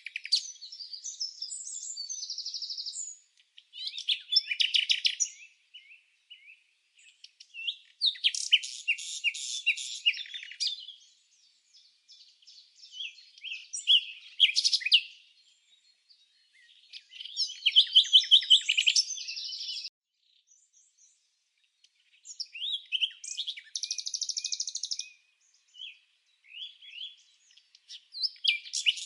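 Songbird singing: phrases of rapid high chirps and trills every few seconds, with short silent gaps between them.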